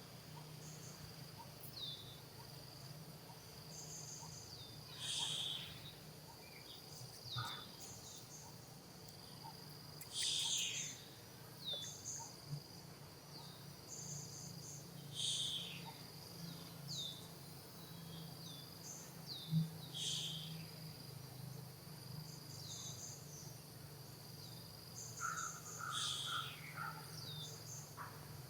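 Outdoor nature ambience: a steady high insect drone with short falling chirps about once a second, and louder calls roughly every five seconds. A low hum runs underneath.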